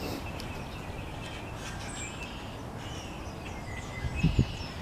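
Small birds chirping and whistling in short, scattered calls over a steady low outdoor rumble, with two short low thumps a little after four seconds in.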